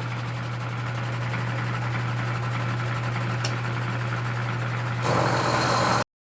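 A machine tool driving a 1/2-inch end mill runs with a steady motor hum. About five seconds in the sound grows louder and coarser as the end mill plunges into the manifold's stud hole, then cuts off abruptly.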